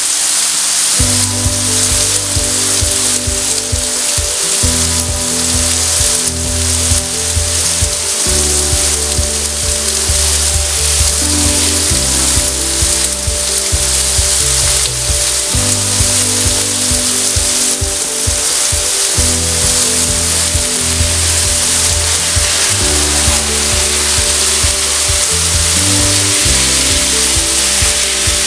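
Heavy rain pouring down, a steady dense hiss, with background music coming in about a second in and playing under it.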